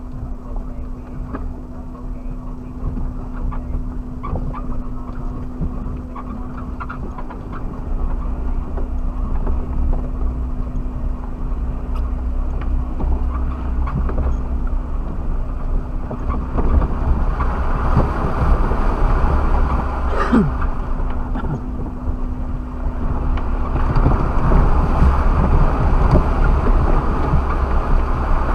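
Suzuki Jimny driving off-road, heard from inside the cab: a steady low engine and tyre rumble with scattered knocks and rattles. It grows louder about eight seconds in and again near the end, where a steady hum drops away.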